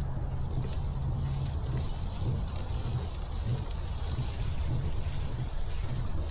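Sheet ice on a frozen slough sounding as a dock frozen into it is rocked back and forth: a steady, irregularly pulsing low rumble with a continuous high, hiss-like ringing over it.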